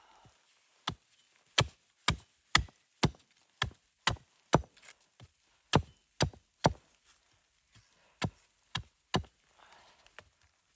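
Wood being chopped: a series of sharp chopping strokes, about two a second, with short pauses about seven and about nine and a half seconds in.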